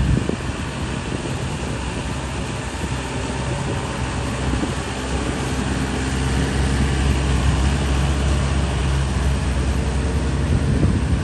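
Tractor engine running steadily while working in deep mud, its low drone growing louder about halfway through.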